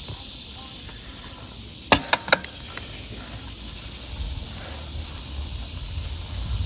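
Wind rumbling on the microphone while riding a bicycle, over a steady high hiss, with a quick run of four sharp clicks about two seconds in.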